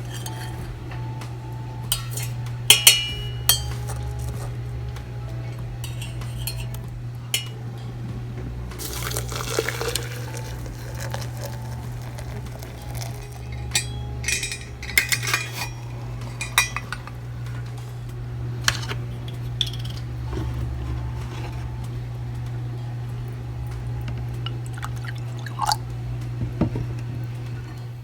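Kitchen sounds: dishes and cutlery clinking against glass and crockery, with liquid poured into a cup or glass for about a second about nine seconds in. A steady low hum runs underneath.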